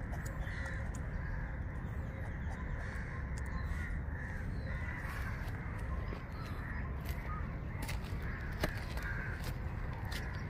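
Birds calling now and then in the background over a steady low rumble, with a few faint sharp clicks, one louder near the end.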